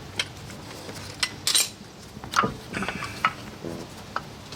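Metal brake parts clinking and scraping in irregular knocks: brake pads and caliper hardware being handled and worked into a large front brake caliper.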